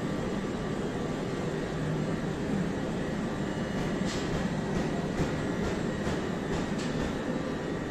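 Trenitalia regional passenger train moving along the platform: a steady running noise, with a few sharp clicks from about four seconds in.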